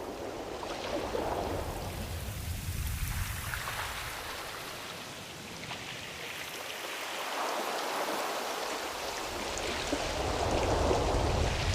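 Ocean surf: the rushing of waves that swells and eases several times, over a low rumble.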